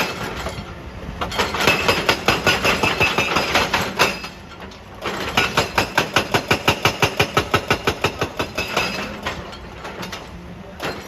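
Excavator-mounted hydraulic breaker hammering rock in rapid, even blows of about seven a second. It comes in two runs of a few seconds each, with a short pause between them and after them where only the machine's engine runs.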